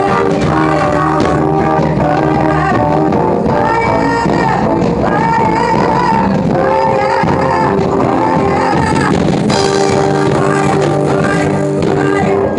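Amplified band playing a gospel song with singing, loud and steady, with electric instruments and drums.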